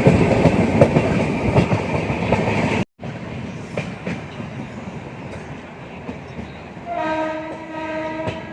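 Passenger train running along the track, with loud rumble and clatter of wheels on rails that drops to a quieter running noise after a cut about three seconds in. Near the end a train horn sounds one steady note for about a second and a half.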